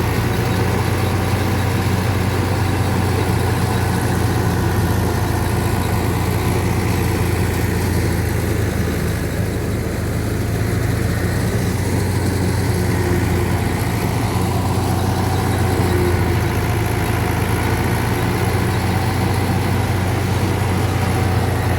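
A Fiat 640 tractor's diesel engine running at a steady speed while it drives a wheat thresher, mixed with the thresher's steady whirring.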